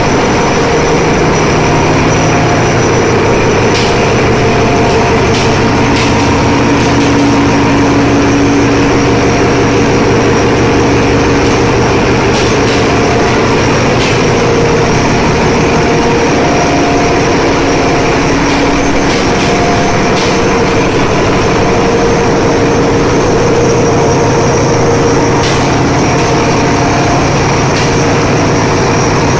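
Ship's engine room machinery running loudly and steadily: a dense mechanical drone with several steady hum tones, and a few sharp clicks scattered through it.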